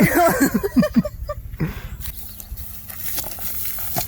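A quick series of about six falling, pitched animal calls in the first second and a half, then quieter outdoor background with a few small clicks.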